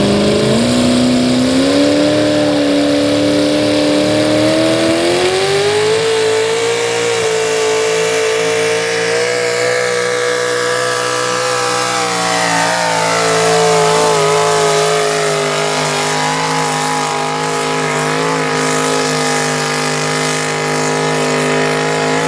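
Pickup truck's engine running hard at full throttle while pulling a sled, its pitch climbing over the first several seconds, easing down a little about halfway through, then holding steady.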